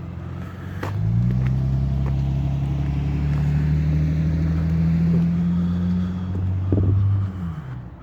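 A low, droning tone with a few overtones, of unknown origin, heard far off. It swells in about a second in, holds steady for about six seconds, then slides down in pitch and fades near the end.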